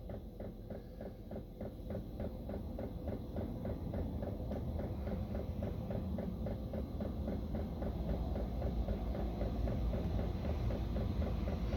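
Chinese diesel heater starting up: its fan hums steadily, growing slowly louder, over a fast regular ticking of about four ticks a second.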